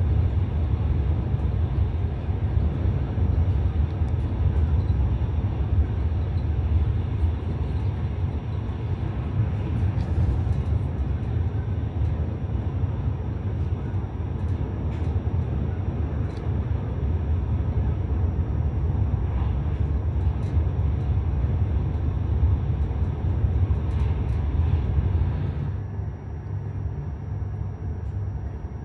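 Steady low rumble and rush of a high-speed train running at speed, heard from inside the carriage. About 26 seconds in it drops to a quieter, steady cabin hum.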